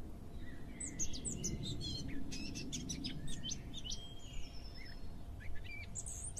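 Small birds chirping: many short, quick high notes and brief whistles scattered throughout, over a low background rumble.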